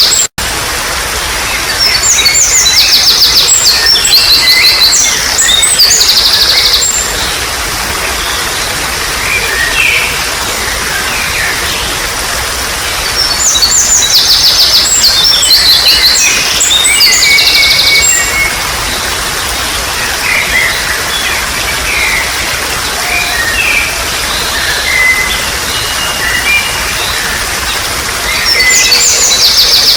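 Trickling water running steadily under wild birdsong: rapid trilling songs in two long bouts, a few seconds in and again about halfway through, with scattered chirps between. The sound drops out for an instant just after the start.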